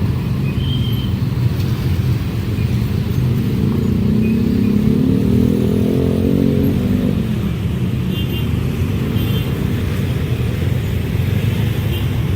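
A train passing at speed: a steady, loud low rumble, with a diesel locomotive's engine note swelling and fading around the middle.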